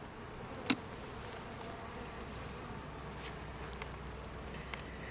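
Steady buzzing of many honeybees around an opened beehive, with one sharp click under a second in.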